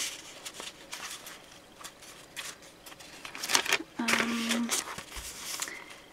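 Paper pages and card tags of a handmade journal rustling and crackling as they are turned and handled, with a cluster of louder rustles around the middle. A short steady hum sounds about four seconds in, followed by a low thud.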